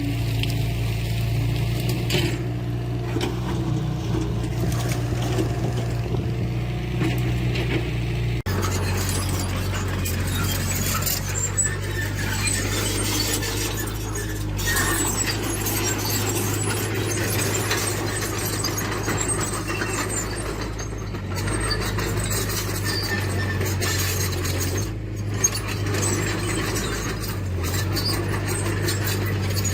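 Diesel engines of heavy earthmoving machinery running steadily. The engine note changes abruptly about eight seconds in.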